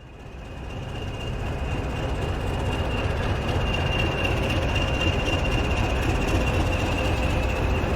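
A train running, its rumble fading in over the first couple of seconds, with a steady high-pitched whine or squeal above it.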